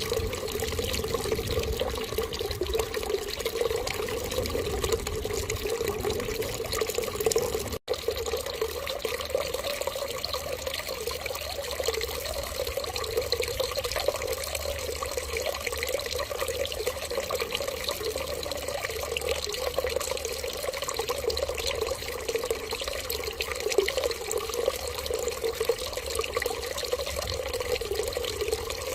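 Water running steadily in a continuous, even flow, like a tap left running, broken only by a split-second gap about eight seconds in.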